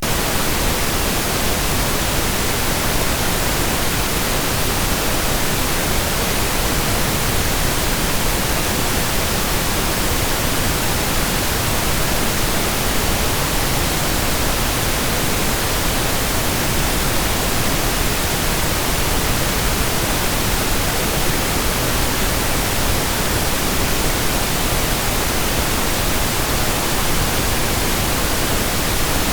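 Steady pink noise: an even, unbroken hiss with no changes, used as masking background sound.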